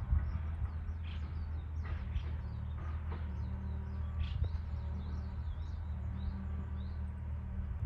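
A steady low machine hum, with a bird chirping in a run of short high notes through the middle.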